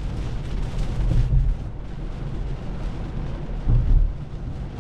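Heavy rain and wet road noise heard inside a moving car's cabin: a steady hiss over a deep rumble, which swells louder twice, about a second in and again near the end.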